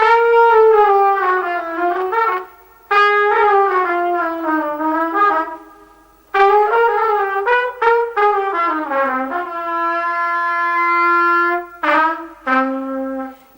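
Bent-bell trumpet playing a solo jazz line in three phrases of quick, mostly falling runs. The last phrase holds one long note, then ends on a low note.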